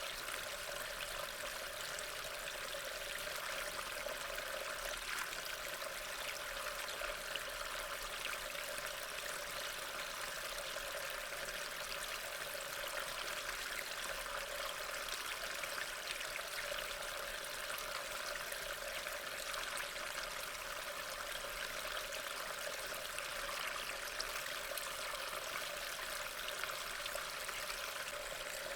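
Steady rain falling: an even hiss of many small drops that does not change.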